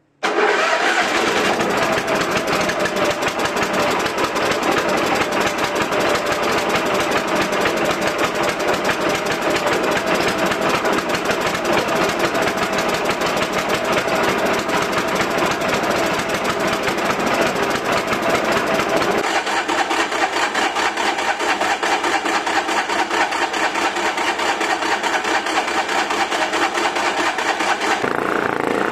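Yanmar JE-80HE snowblower engine running steadily. Its lower part drops away about two-thirds of the way through, and the sound shifts again near the end.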